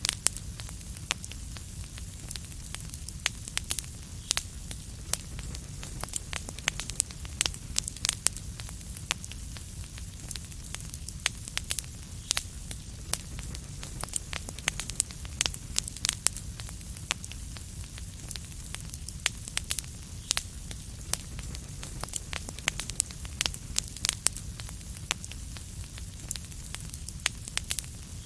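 Wood fire crackling: frequent irregular sharp pops and snaps over a steady low rumble and hiss.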